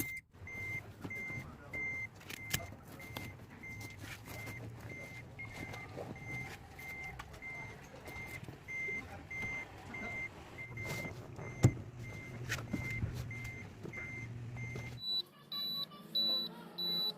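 Electronic warning beeps repeating about two and a half times a second over a low hum, with scattered clicks and knocks; near the end the beeping stops and a higher-pitched beep takes over.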